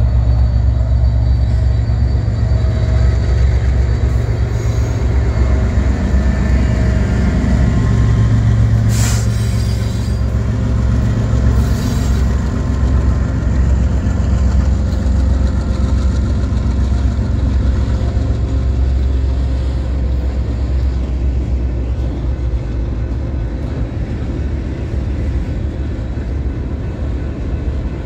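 Freight train passing at close range: the diesel engines of the lead BNSF EMD SD70MAC and a GE ES44AC run with a deep steady rumble that slowly fades as the locomotives go by. The rolling noise of freight cars on the rails follows. Two brief sharp knocks sound near the middle.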